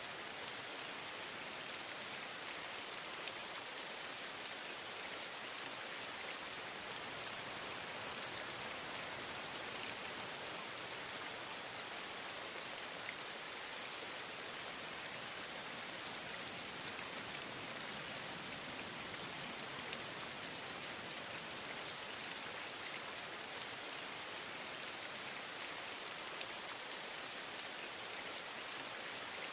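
Steady rainfall, an even hiss of many drops that holds at one level, with a few faint ticks here and there.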